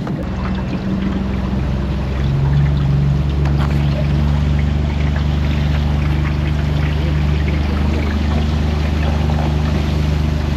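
Boat's outboard motor running under way, picking up speed about two seconds in and then holding steady, with water rushing past the hull.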